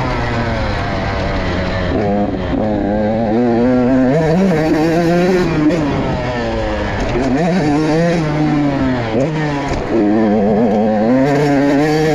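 Motorcycle engine running hard, its pitch rising under throttle and dropping back again several times: the drops come about two, four, six and a half, and nine seconds in.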